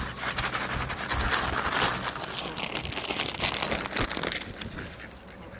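Crinkling and rustling of a bag of bird feed being handled and shaken out, with many small crackles, easing off near the end.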